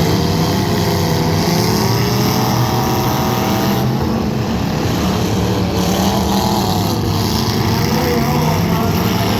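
Demolition derby car engines running loud, their pitch rising and falling as they rev, over a constant rumble.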